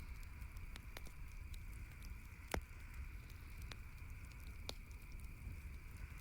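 Campfire crackling: scattered sharp pops and snaps, the loudest about two and a half seconds in, over a steady low rumble.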